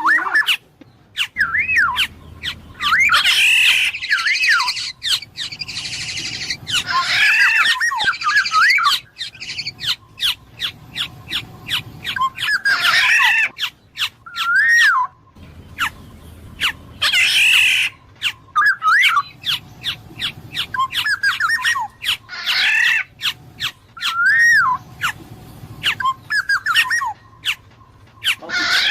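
Black-naped oriole calling: clear, looping whistled notes mixed with quick runs of short sharp notes, in bouts repeated every few seconds.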